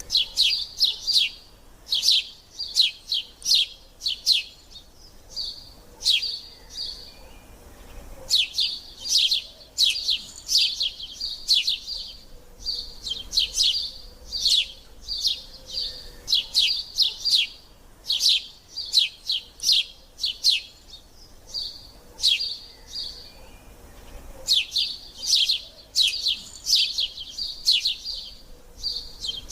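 House sparrow chirping: short, sharp chirps given in quick runs of several at a time, with brief pauses between runs.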